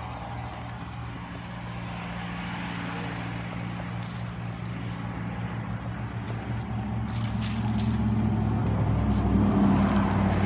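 A steady low engine hum that grows louder in the last few seconds, with scattered light clicks and rustles near the end.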